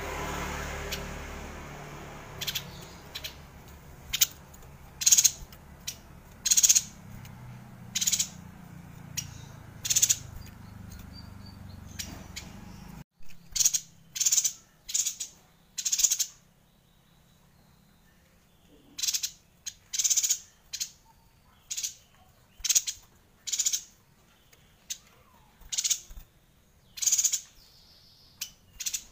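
Yuhina calling: a string of short, sharp, high-pitched notes, roughly one a second. A low hum under the first half stops abruptly about halfway through, leaving the calls alone.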